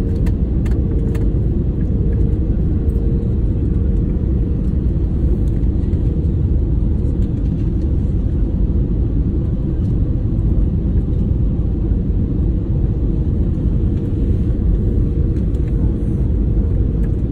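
Airliner cabin noise: a steady low rumble of engines and airflow with a faint steady hum above it.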